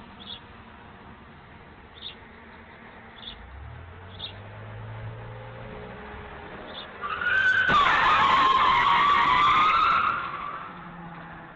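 Car tyres squealing in a skid for about two and a half seconds, a wavering high whine over loud road noise, starting about seven and a half seconds in. Before it, a low engine hum.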